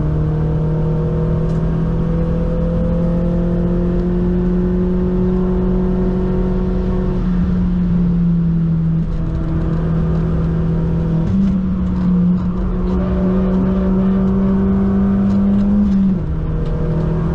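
Mk1 Audi TT engine pulling hard under load, its pitch climbing slowly. The pitch drops at a gear change about 8 seconds in, jumps up about 11 seconds in, and drops again near the end.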